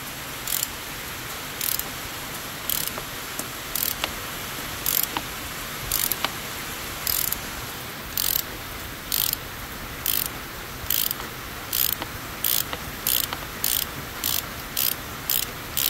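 Ratchet wrench with a 32 mm socket on an extension, clicking in short bursts on its return strokes while unscrewing a plastic oil filter housing cap. The bursts come about once a second at first and quicken to about two a second near the end as the cap turns more freely.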